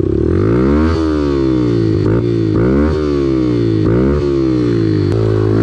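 Off-road vehicle engine revving, its pitch rising and falling about once a second as the throttle is worked, with an abrupt change about five seconds in.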